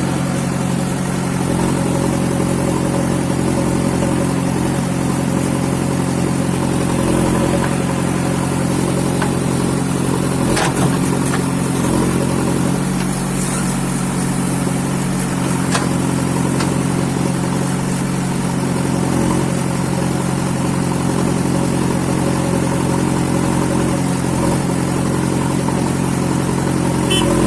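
Diesel engine of a tractor or backhoe loader running steadily, with a couple of brief sharp clicks about a third of the way in and again past halfway.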